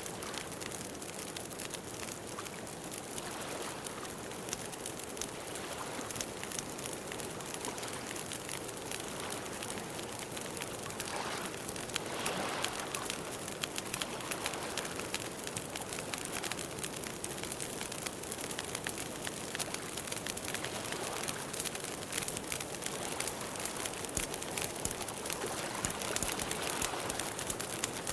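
Campfire crackling, a steady hiss dotted with many small pops.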